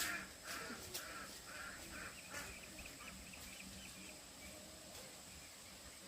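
Birds calling faintly: a few harsh calls about half a second apart, then a quick run of small high chirps.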